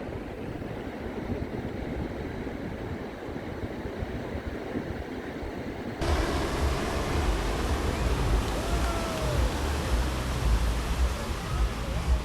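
Steady sea surf and wind noise. About halfway through it cuts suddenly to louder, brighter surf with a low wind rumble on the microphone, and a couple of short wavering tones sound over it.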